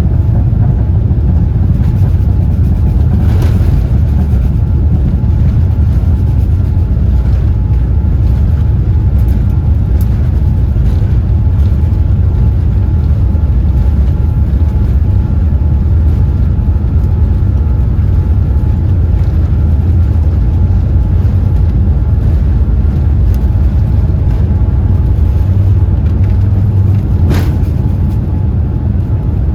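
Steady low rumble of a Boeing 787-8 airliner's engines and airflow heard inside the cabin, with a faint steady hum above it and a couple of brief clicks.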